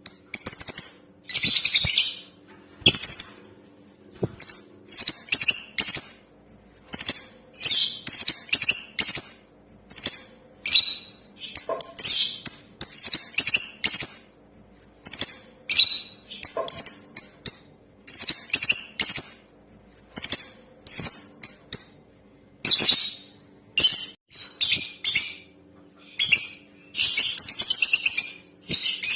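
Female lovebird chattering in rapid, high, sharp chirps, delivered in bursts of about half a second to a second with brief pauses between them.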